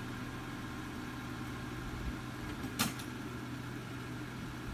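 Jeep engine idling steadily, with a single sharp knock about three seconds in.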